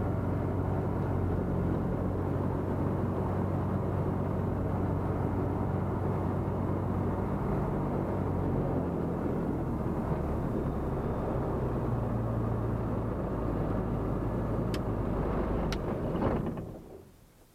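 Light aircraft's piston engine heard from the cockpit, running steadily at low power. Two sharp clicks come near the end, then the engine stops within about a second, leaving near silence.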